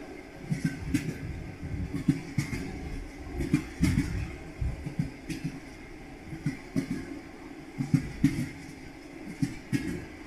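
Railway carriage wheels knocking over rail joints, an irregular clatter of knocks over a steady low rumble from a train in motion.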